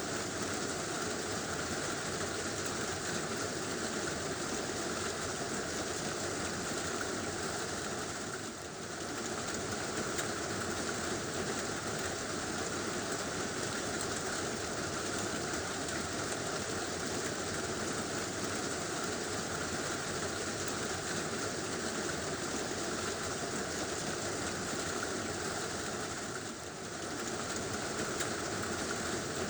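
Heavy rain drumming steadily on a tin roof, a dense even patter that dips briefly about nine seconds in and again near the end.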